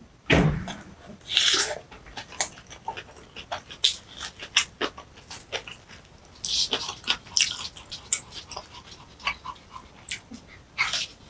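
Close-miked eating sounds of kimchi bibimbap being chewed: many small wet clicks, smacks and crackles, with a louder bite just after the start. A spoon works the rice in a wooden bowl around the middle.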